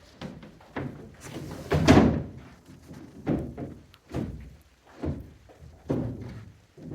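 A series of dull thumps on wood, about one a second, the loudest about two seconds in.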